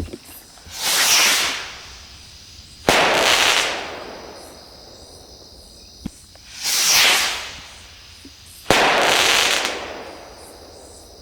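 Two Flying Pig firework rockets going off one after the other. Each gives a hiss that swells and fades as it climbs, then a sudden loud burst that fades out over a second or two.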